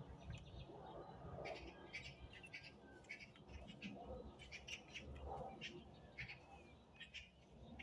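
Birds chirping, many short high calls scattered throughout, over a faint low rumble.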